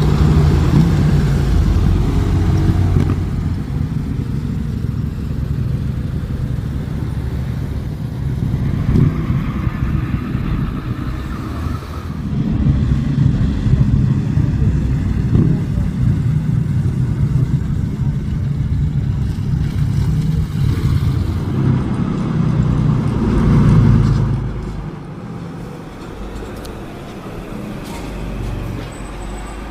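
Several motorcycle engines running and revving as bikes ride in, swelling and easing off by turns. The sound peaks a little past two thirds of the way through, then fades to a quieter, steadier running near the end.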